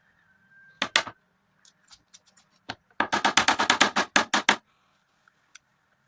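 Close-miked eating noises: a short burst of sharp smacks about a second in, then a rapid run of about nine sharp clicking smacks a second from about three seconds in, with a few scattered ticks between.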